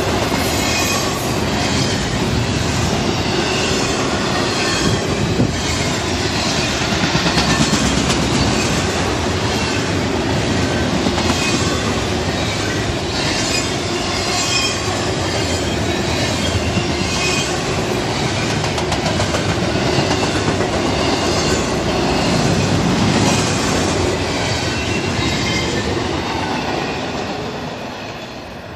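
Double-stack intermodal freight train's well cars rolling past close by: a steady, loud rumble of steel wheels on rail with repeating clicks from the wheels. It fades away near the end as the last car passes.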